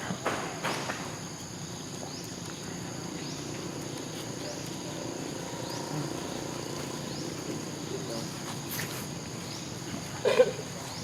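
Insects, crickets or cicadas, keep up a steady high drone with short rising chirps about once a second. There are a few clicks in the first second, and a brief loud squeak comes near the end.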